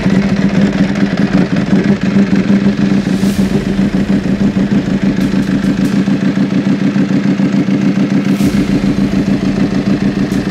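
Ducati Desmosedici RR's V4 engine running loud and steady with an even, throbbing note, a brand-new race-derived superbike held at a constant speed.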